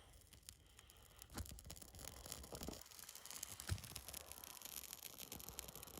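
Small fire of bark and thin twigs burning quietly, with a faint steady crackle and a few sharper snaps.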